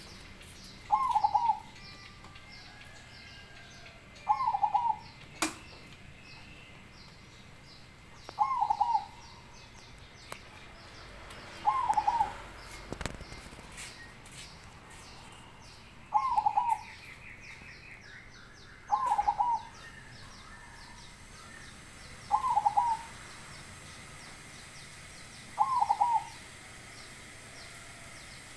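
Perkutut (zebra dove) cooing with a big voice: eight short calls about three and a half seconds apart.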